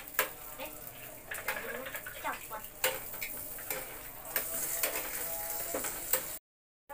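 Burger patties sizzling in a ridged grill pan, with scattered clicks and taps of tongs against the pan as the patties are handled. The sound cuts out completely for about half a second near the end.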